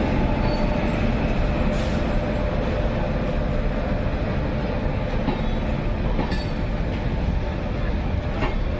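Express passenger train rolling along the track: a steady rumble of coaches and wheels on the rails, with a brief high wheel squeal about six seconds in.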